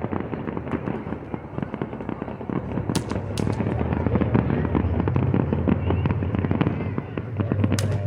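Aerial fireworks exploding in quick succession: dense crackling with deep booming shell bursts, heaviest in the middle, and a few sharp cracks about three seconds in and again near the end.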